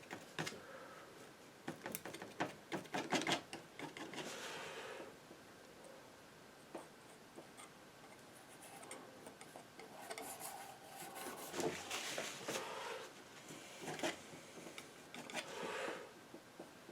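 Painting knife scraping and tapping as it mixes and spreads paint: a cluster of quick clicks and scrapes a couple of seconds in, and another from about ten seconds in.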